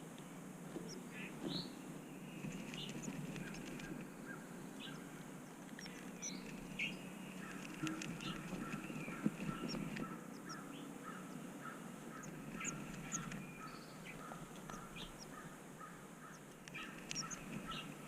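Several birds chirping and calling: many short, high chirps, joined about six seconds in by a run of quick repeated notes.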